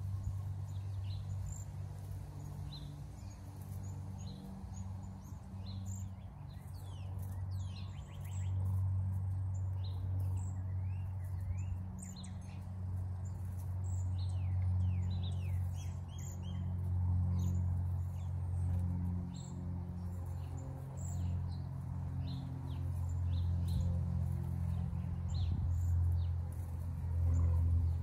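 Small birds chirping, with many short high calls and quick twittering notes coming throughout, over a louder low drone that swells and fades.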